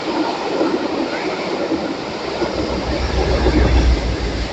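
Passenger coaches of a steam-hauled train rolling past below on jointed track: a dense, steady rush of wheel and rail noise. A low rumble swells about three seconds in as the last coach goes by.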